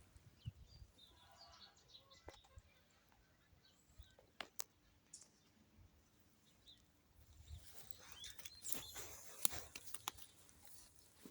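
Soft rustling and scraping of garden soil being worked while tomato seedlings are planted out, with a few sharp clicks and a denser rustle near the end. Faint bird chirps are heard about a second in.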